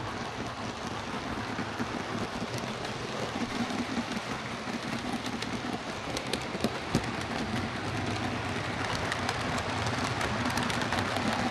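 Lima Class 117 OO gauge DMU model, converted to a CD motor, running on track: a steady whirring hum with many small clicks, growing slowly louder.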